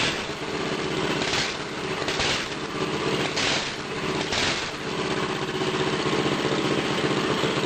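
Predator 212 single-cylinder four-stroke engine on a kit mini bike running under way as it is ridden, with its aftermarket exhaust, and five brief hissing rushes over the engine note.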